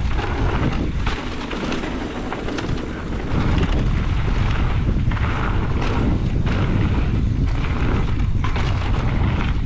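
Wind buffeting the camera microphone and tyre noise from a mountain bike running fast down a dirt trail, with frequent knocks and rattles as the bike hits bumps.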